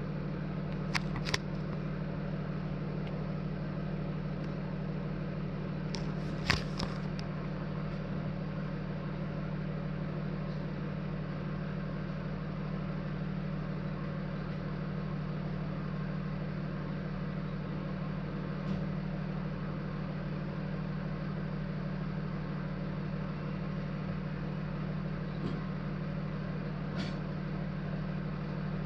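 An emergency vehicle's engine idling with a steady low hum. A few sharp clicks come in the first two seconds, a louder knock about six seconds in, and faint ticks later.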